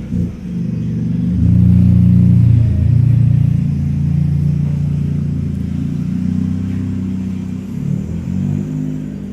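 Ford Fiesta's engine and exhaust running, revved up about a second and a half in and held for a couple of seconds, then settling to a steadier run, with a few quick throttle blips near the end.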